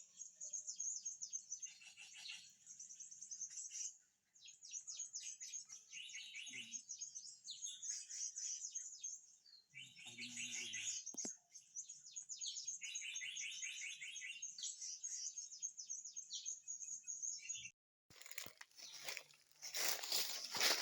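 Small birds chirping and trilling in quick, high-pitched phrases, one after another. Near the end the sound cuts out briefly and gives way to crunching, rustling noise.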